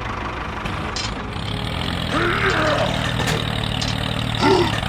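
Steady, low engine-like hum of a model construction vehicle running. Two short voice-like sounds come through, about two seconds in and near the end.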